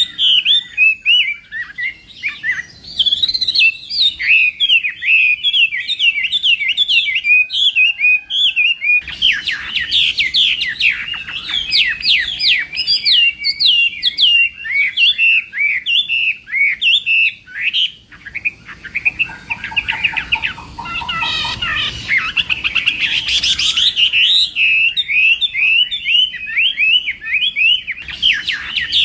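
Chinese hwamei singing a loud, continuous song of rapid, sweeping whistled notes, with a stretch of lower, quicker notes about two-thirds of the way through.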